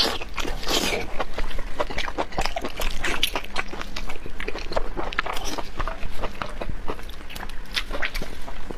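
A person chewing and biting food close to the microphone: a dense, irregular run of short wet mouth clicks.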